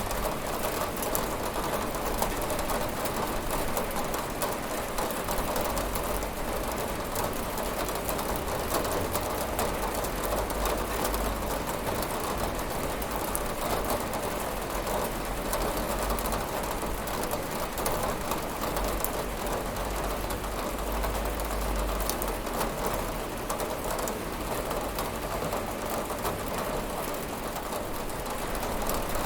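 Steady rain falling on a window: a dense, even hiss of many small drop hits, with a faint low rumble underneath.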